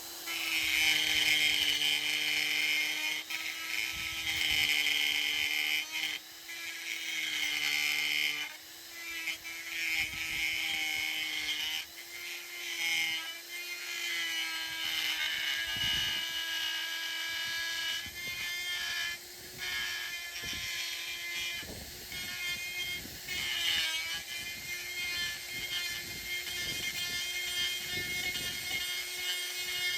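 Handheld power grinder running at a steady high whine, grinding casting flash off a big-block Chevrolet engine block. Its pitch wavers and the gritty cutting noise swells and fades as it is worked along the metal.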